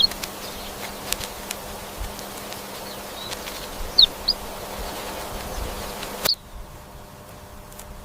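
Rainforest ambience: a steady insect buzz with scattered clicks and a few short bird chirps, two quick ones about four seconds in. The whole background drops away abruptly about six seconds in, leaving a quieter ambience.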